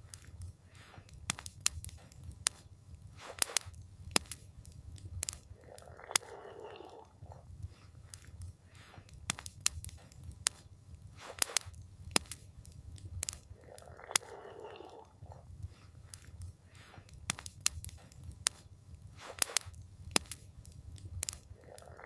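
Campfire crackling, with frequent sharp, irregular pops over a steady low rumble. A soft whooshing swell rises and fades about every eight seconds.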